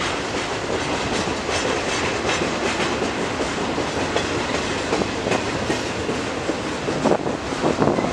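A train rolling past at steady speed: a continuous rumble and rush of steel wheels on the rails, with faint clicks as the wheels cross rail joints.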